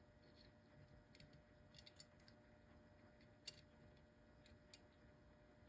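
Near silence with a few faint, irregular small clicks of metal clock gears being handled and fitted into the movement's plate, the sharpest about three and a half seconds in.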